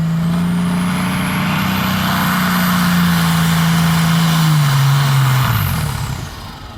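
Pulling tractor's engine running hard at high, steady revs with a high whine that climbs in pitch, then the engine drops off and winds down about five and a half seconds in.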